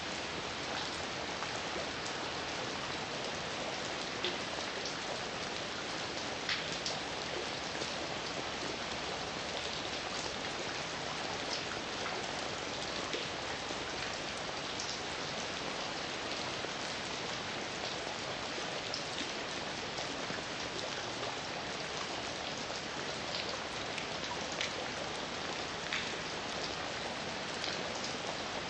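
Heavy rain falling steadily, a dense even hiss with scattered individual drops ticking on a surface.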